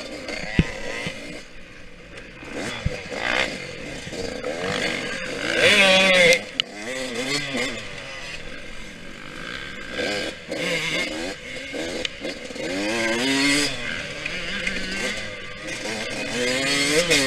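Yamaha YZ125X's 125cc two-stroke single-cylinder engine revving up and down in repeated rising and falling surges. The loudest surge comes about six seconds in and cuts off suddenly. Two sharp knocks come within the first three seconds.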